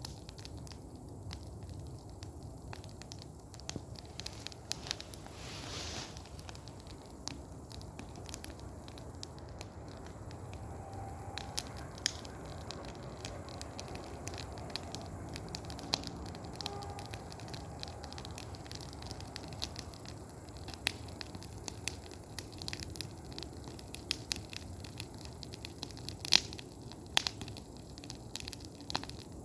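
Bonfire of dry branches crackling, with irregular sharp pops and snaps over a steady low rush of flame; a few louder pops stand out, the loudest near the end.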